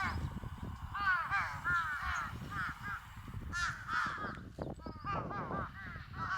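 Animal calls: short, harsh, arched calls repeated in quick runs of three or four, over a low rumble.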